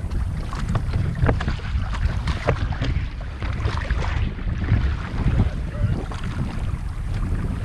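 Wind buffeting the microphone as a low rumble, with water sloshing and scattered knocks around a kayak.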